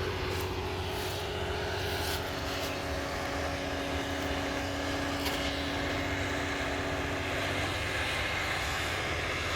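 Demolition excavator's diesel engine running steadily, a constant low drone with a steady whine over it that stops about three-quarters of the way through.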